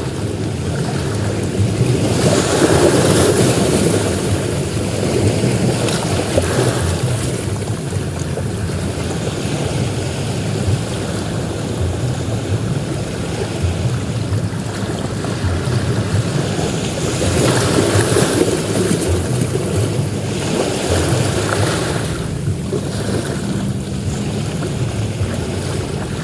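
Ocean waves breaking and washing up a beach: a continuous rush of surf that swells louder as waves break, about two seconds in and again in the later part.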